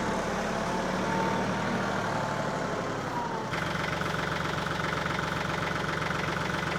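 An engine running steadily, whose sound shifts abruptly about three and a half seconds in.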